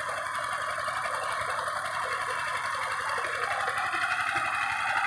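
Power tiller's single-cylinder diesel engine running steadily under load while ploughing, with a rapid even beat. It grows a little louder about four seconds in.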